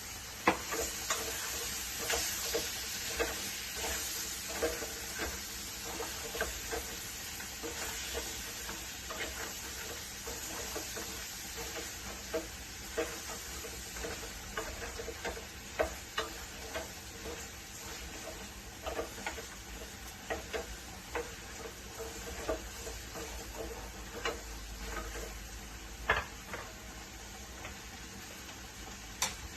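Food sizzling in a pan while a spoon or spatula stirs it, knocking and scraping against the pan in irregular clicks about once or twice a second.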